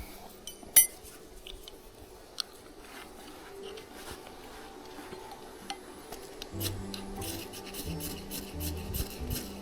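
Metal scraped in repeated rasping strokes over birch-bark tinder to get a campfire lit, starting about two thirds in, after a single sharp click under a second in and a few quieter handling clicks. Low background music comes in along with the scraping.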